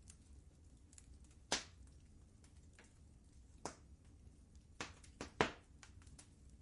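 Wood fire crackling in a fireplace: irregular sharp pops, the loudest near the end, over a faint low rumble.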